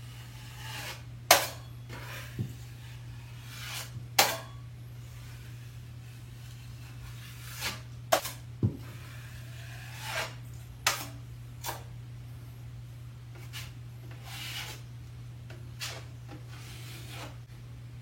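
Metal drywall knife scraping and clicking as joint compound is spread and smoothed around an outlet: short scrapes with several sharp ticks of the blade at irregular moments, over a steady low hum.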